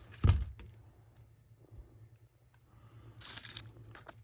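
Handling noise: a sharp knock just after the start, then a short rustle about three seconds in, over a faint low steady hum.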